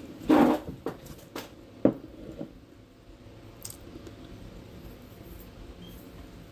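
A person chewing a mouthful of food. There is a loud wet mouth sound near the start, then a few clicks and a short knock in the first two seconds, and after that only faint small chewing sounds.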